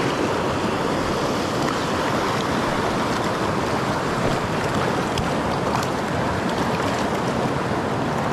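Steady rush of a flowing mountain creek, water running over rocks.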